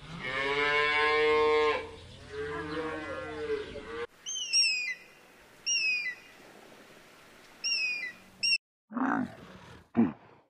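A run of separate animal calls. First comes a loud, drawn-out pitched call, like a large mammal lowing, which trails off over the next couple of seconds. Then a bird gives short, sharply falling chirps in four or five groups, followed by a few brief low calls.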